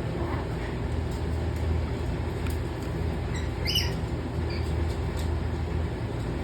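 A lory parrot gives one short squawk a little past the middle, over a steady low hum.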